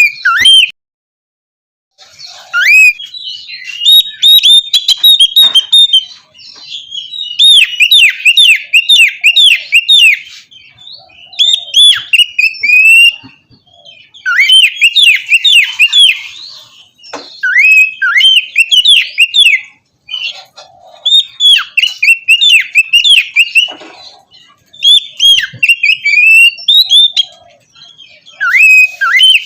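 Oriental magpie-robin (kacer) singing in loud, clear phrases of rapid rising-and-falling whistled notes, each phrase a few seconds long with short pauses between them.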